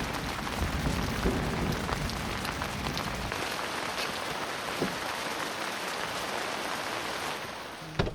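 Rain falling steadily, with many small drops ticking on a surface. A low rumble under it fades out about three seconds in, and a sharp knock comes right at the end.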